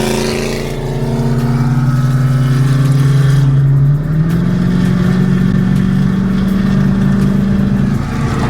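Car engine running steadily at highway speed, with road and wind noise; its pitch shifts slightly about four seconds in.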